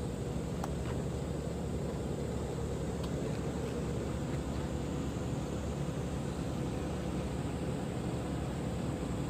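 A boat's diesel engine running steadily: an even low rumble with a faint steady hum.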